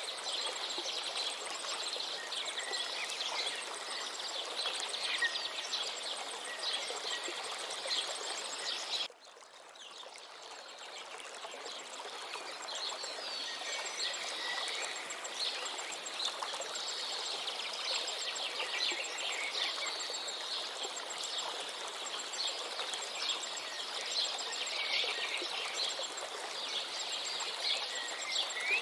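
A river flowing steadily while many small birds chirp and twitter over it. About nine seconds in, the whole sound drops out abruptly and fades back in over a few seconds.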